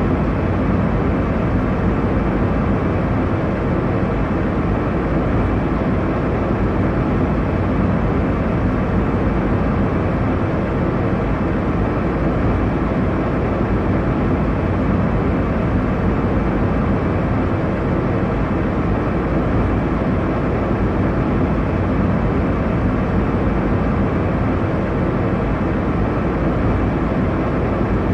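Airliner cabin noise: a steady, deep rushing drone.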